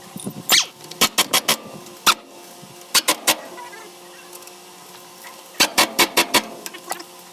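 Sharp knocks struck in quick runs of three to five, like hammer blows on metal parts during front axle and differential work.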